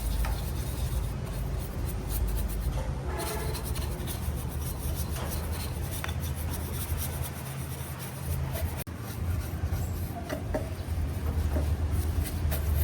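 Intermittent rubbing and scraping from hand work, with scattered light clicks over a steady low hum.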